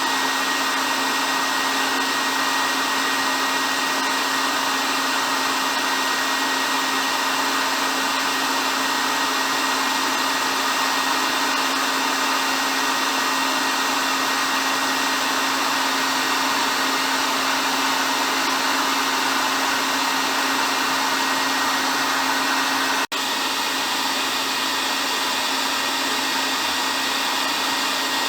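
Hair dryer running continuously: a steady rushing blow with a constant hum and a thin high whine. It breaks off for an instant about three-quarters of the way through, then carries on slightly quieter.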